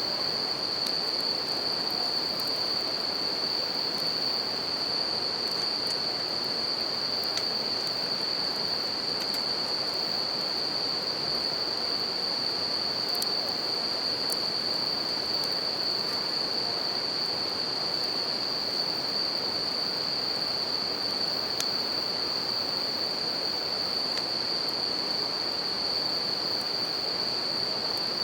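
A river running with a steady rush, under a continuous high-pitched chorus of bell crickets (suzumushi). A campfire gives a few faint, sparse crackles.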